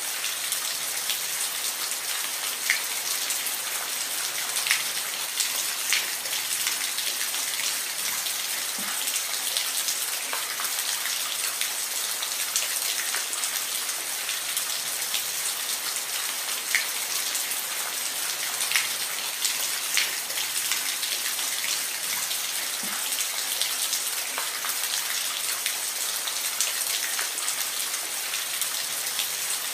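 Steady rainfall: an even hiss of rain with scattered louder individual drops hitting a surface close by.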